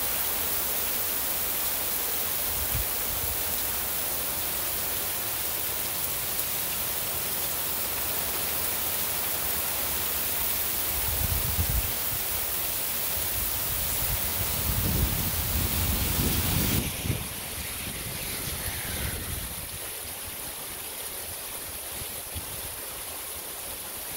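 Heavy rain falling steadily, a dense even hiss. There are a few low rumbles midway through. About two-thirds of the way in, the sound shifts suddenly to a quieter rain hiss.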